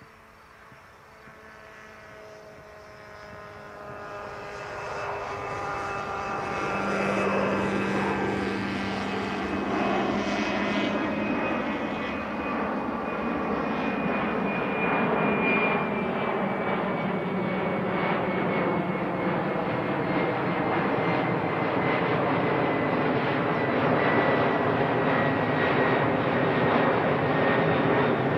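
Boeing 767 freighter's twin turbofan jet engines spooling up for takeoff. The sound builds steadily over the first seven seconds, with whines rising in pitch, then stays loud and steady, with one whine sliding down in pitch as the aircraft goes past.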